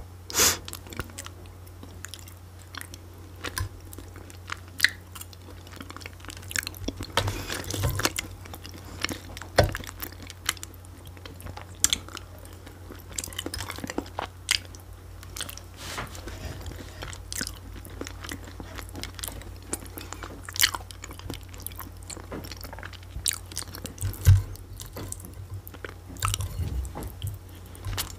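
Close-miked chewing and wet mouth sounds of someone eating soft food (cabbage rolls and mashed potato), with scattered sharp clicks of a metal fork against a plate. A steady low hum runs underneath.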